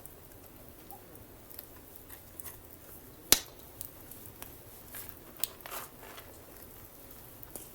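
Wood fire crackling: scattered, irregular sharp pops and snaps over a low hiss, the loudest pop about three seconds in.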